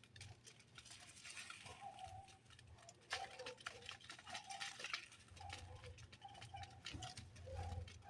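Birds at a feeder: short, repeated chirps over a patter of quick clicks and rustling, with a low hum underneath.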